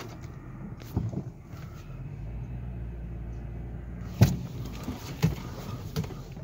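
Lincoln Town Car's 4.6-litre V8 running at low speed, heard from inside the cabin as a steady low hum that deepens about two seconds in. A few sharp clicks and knocks sound over it, the loudest a little past the middle.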